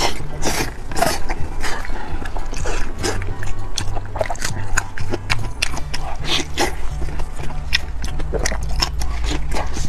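Close-miked eating sounds: chewing braised meat with many quick wet lip smacks and mouth clicks.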